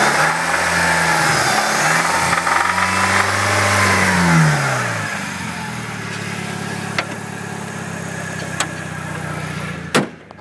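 1998 Mitsubishi Eclipse GS's 420A 2.0-litre four-cylinder engine revved up and back down in the first five seconds, then running at a steady idle. The owner reports a horrible knocking noise from it at around 2,000 to 4,000 rpm. A few sharp clicks come near the end, the loudest just before the end.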